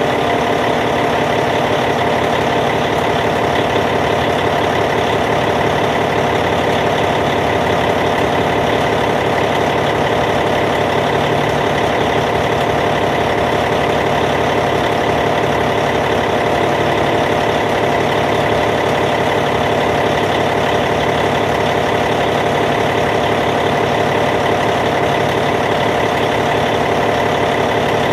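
Caterpillar C15 diesel engine in a Cat D8T dozer idling steadily, with an even, rapid firing pulse.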